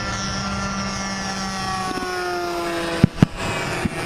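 Radio-controlled model airplane engine running with a whine whose pitch slowly falls. Two sharp knocks about three seconds in.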